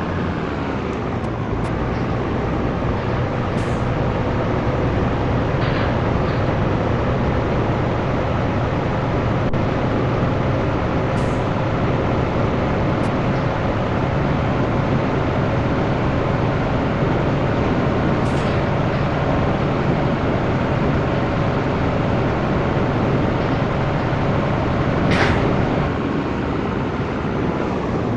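Scania T113 truck's diesel engine running under way, heard steadily. Its pitch dips just at the start, then climbs slowly and evenly. Brief faint high hisses come about every seven seconds.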